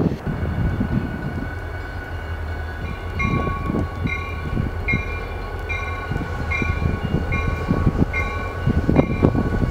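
Diesel freight locomotive rumbling as it approaches, with a bell ringing about once a second from about three seconds in.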